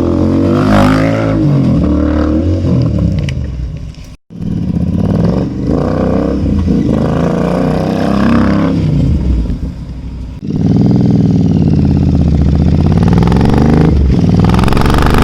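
Royal Enfield 650 parallel-twin motorcycle engine revved repeatedly through its exhaust, the pitch rising and falling with each blip of the throttle. The sound drops out for an instant about 4 s in, and about 10 s in it switches to a louder, steadier run, as from a second recording.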